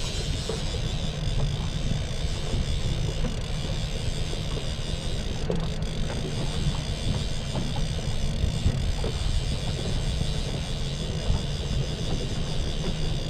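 Fishing boat's motor running steadily, with wind rumbling on the microphone.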